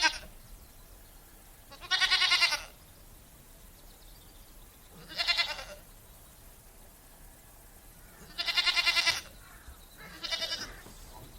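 Goat bleating: four wavering bleats a few seconds apart, each under a second long.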